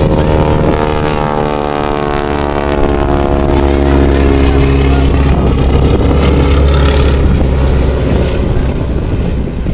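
Wingwalking biplane's piston engine and propeller droning through a low, slow pass, the pitch falling steadily over several seconds as it goes by, then a steady drone.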